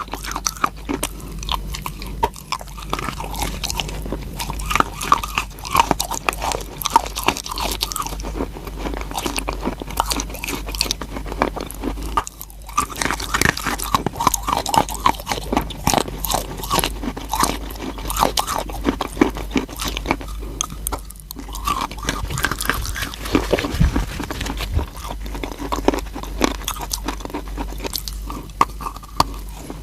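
A person biting and chewing crunchy chalk: a dense run of crisp crunches, with brief pauses about twelve and twenty-one seconds in.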